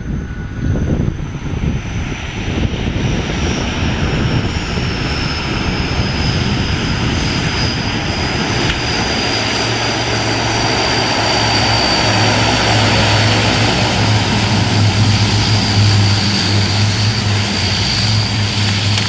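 Propeller aircraft engine running and growing louder, with a steady low drone that strengthens from about halfway and a high whine that slowly falls in pitch.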